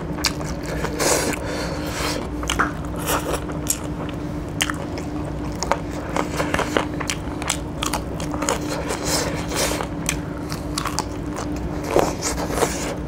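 Close-miked chewing and biting of chicken in curry, a dense run of crunches, clicks and wet mouth sounds, with fingers scraping through the food. A faint steady hum runs underneath.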